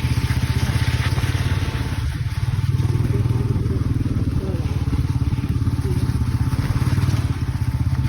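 Motorcycle engine running steadily, its rapid, even firing pulses loud throughout.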